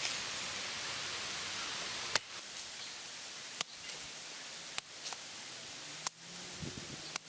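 Steady hiss of background noise, broken by four sharp clicks spaced about a second and a half apart, the hiss changing level at each click.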